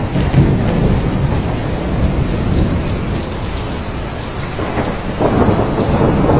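Thunderstorm: steady heavy rain with a low rolling rumble of thunder that eases in the middle and builds again about five seconds in.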